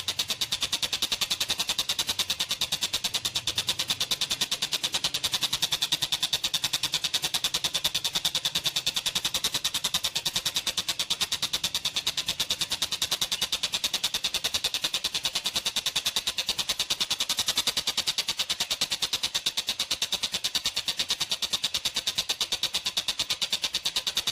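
Tengkek buto bird giving a long, rapid, even rattle of clicking notes without a break, a call likened to a running train.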